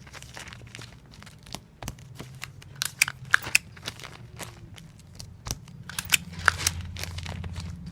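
Tape dispenser in repetitive use: sticky tape pulled off the roll with short squeaks and torn on the cutter, among crinkling and clicks as comic books are handled, over a steady low hum.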